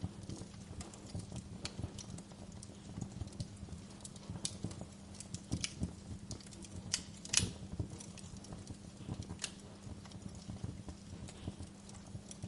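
Wood fire crackling, with irregular pops and snaps, the loudest a little past the middle, over a steady low hum.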